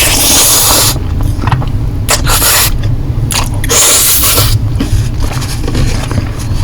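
Close-miked eating of Korean noodles: three loud hissing slurps, the longest at the start, with small mouth and utensil clicks between them.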